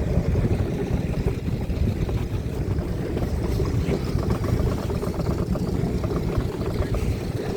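Steady low rumble of a running engine, with no clear beat.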